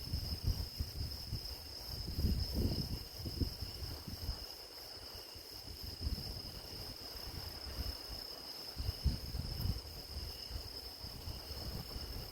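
Grass insects (crickets) chirring steadily in a continuous high-pitched trill, over an uneven low rumble that swells and fades.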